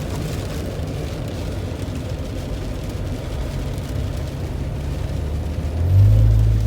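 A vehicle's steady low rumble of engine and road noise while driving, with the engine drone growing stronger about six seconds in.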